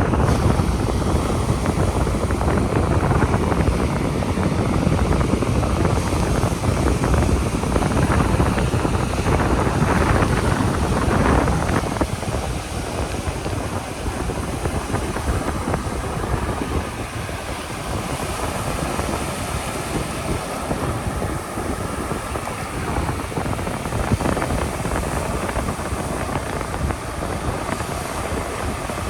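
Wind buffeting the microphone in a steady low rumble over the wash of the surf, heavier for about the first twelve seconds and then easing a little.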